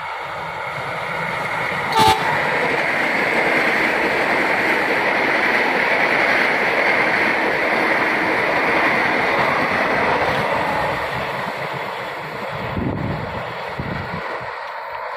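Electric commuter train gives one short horn toot about two seconds in, then passes close by with a rising rush of wheels on rail that peaks mid-way and fades as it moves away.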